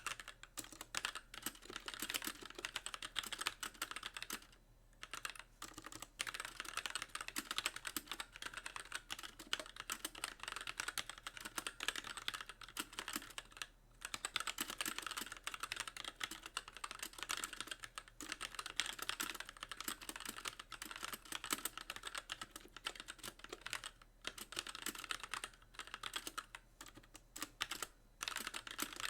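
Fast continuous typing on a mechanical keyboard with light linear Gateron Clear switches: the keys bottom out in a rapid clatter of clicks, with a few short pauses between bursts.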